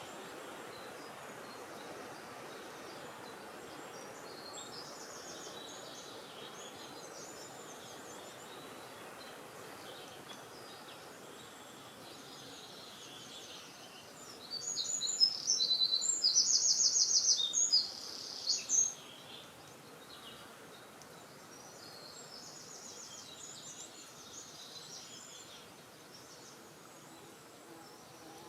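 Wild birds singing over a steady rush of wind. About halfway through, a nearby bird sings a loud song of fast repeated notes, with fainter songs before and after.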